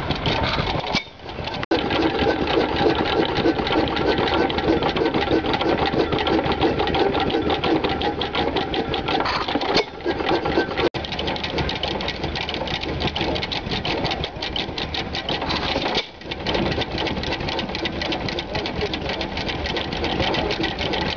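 1920 United 4½ hp open-crankcase hit-and-miss stationary engine running, a fast, steady mechanical clatter.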